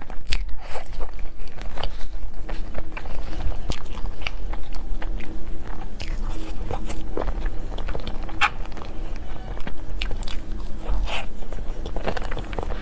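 Close-miked biting and chewing of cake and dessert, with many irregular crisp crunching clicks over a faint steady low hum.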